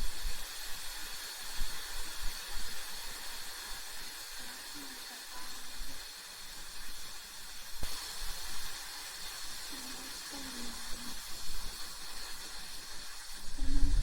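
Steady airy hiss with a faint, steady high whine, over soft low rumbles that come and go.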